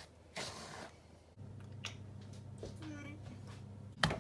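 Shortbread dough of flour, butter and sugar being mixed in a bowl, a brief squishy scrape, followed by a steady low hum that starts about a second and a half in and a sharp click near the end.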